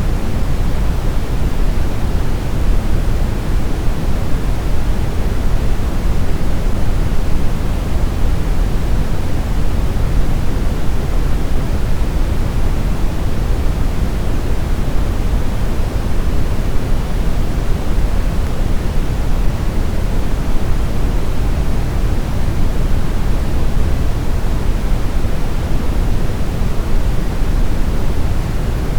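Synthetic brown noise: a steady, deep rushing hiss with most of its energy in the bass, no pitch, rhythm or events.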